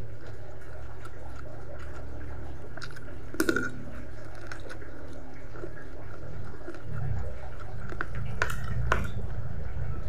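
Close-up eating sounds of a person chewing chicken feet in chili sauce: wet chewing and lip-smacking with a few short sharp clicks. A steady low rumble in the background grows louder about seven seconds in.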